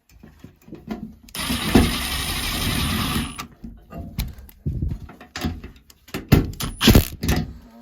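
A steady mechanical buzz lasting about two seconds, starting a second and a half in, followed by a run of sharp clicks and knocks of hand work on the boiler's wiring and parts.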